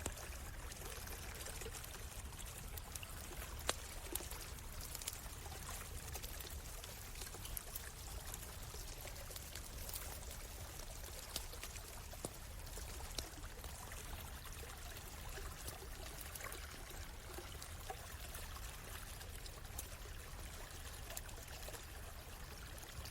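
Small stream flowing and trickling steadily, with the scattered sharp crackles and pops of a wood campfire.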